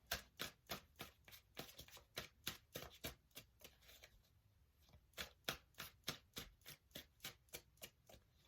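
Tarot deck being shuffled by hand: a quick run of soft card slaps, about three or four a second, with a short pause about halfway through.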